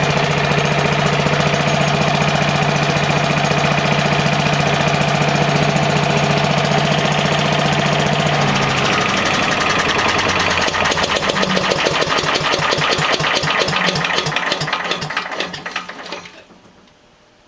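Briggs & Stratton 205 cc single-cylinder engine on a DR leaf and lawn vacuum running steadily, then dropping in pitch about eight seconds in and slowing down until it stops near the end.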